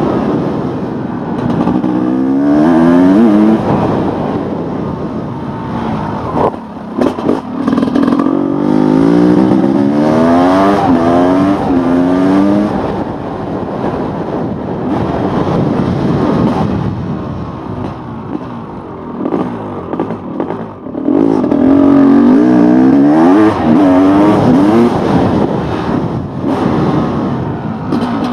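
Honda CR500's two-stroke single-cylinder engine pulling hard through the gears, its pitch climbing in three strong runs, with the engine dropping back off the throttle between them.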